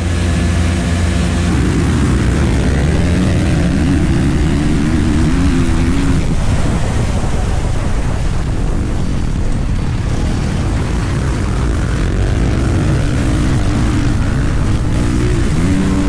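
Dirt bike engine running under throttle, its pitch rising and falling as the revs change, over a constant rushing noise.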